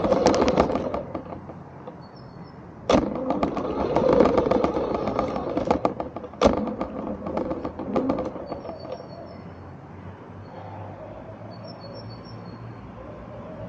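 Small remote-controlled car rolling over rough ground, its wheels and body rattling, with two sharp knocks about three and six seconds in; after about eight seconds it goes quieter, leaving a low hum and a few faint high chirps.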